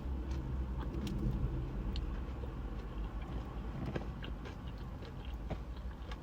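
Faint chewing and small mouth clicks from someone eating, over a low steady hum.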